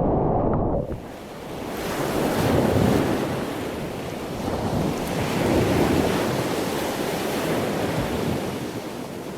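Ocean surf breaking and washing, swelling and easing twice, with wind buffeting the microphone. It opens with a low rumble that cuts off about a second in.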